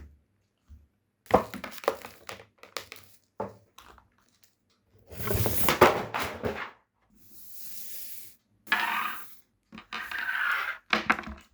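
Headphone packaging being handled and opened: a quick run of clicks and knocks, then several spells of rustling and scraping, one of them a thin high hiss like something sliding out.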